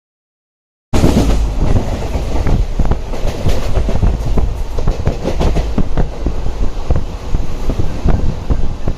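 Train running on rails: a heavy rumble with rapid, uneven clicking and clattering of the wheels over the track, starting abruptly about a second in.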